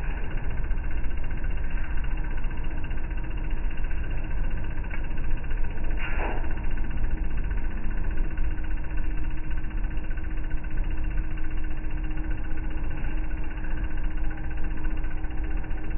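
Washing machine running with a steady low rumble and a faint constant hum, with one short knock about six seconds in.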